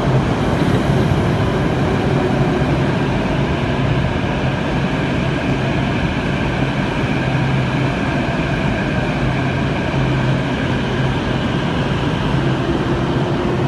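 Metro train running: a steady rumble with a low hum and faint higher motor whines.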